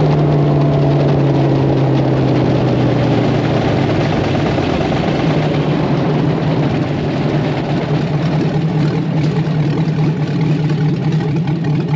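LS V8 engine of a drag altered running steadily at moderate speed, its pitch sagging slightly in the first few seconds and then holding, under a dense rushing noise.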